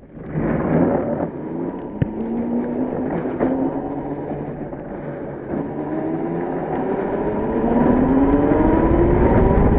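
Electric mini-bike motor driving a go-kart, its whine climbing in pitch as the kart gathers speed. A rushing noise grows louder near the end.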